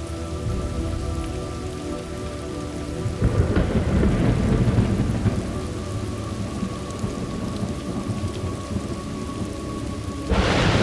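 Thunderstorm ambience: steady rain falling. Thunder rumbles in about three seconds in and rolls away over the next few seconds, and a sharper thunderclap breaks just before the end.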